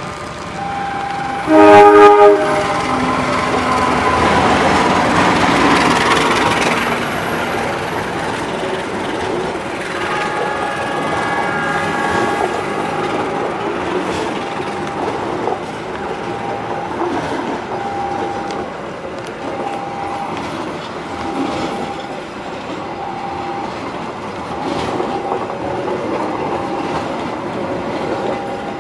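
A CC201 diesel-electric locomotive (GE U18C) gives a short horn blast about a second and a half in, the loudest sound here. It then runs past hauling a passenger train, with the coaches' wheels rumbling and clicking over the rail joints. Behind it, a level-crossing warning signal sounds a short tone about once a second.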